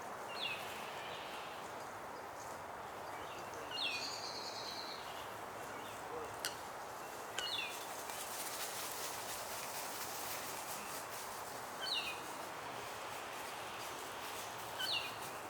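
A bird giving short, high, down-slurred chirps, one every few seconds, over a steady background hiss; a single sharp click sounds about six seconds in.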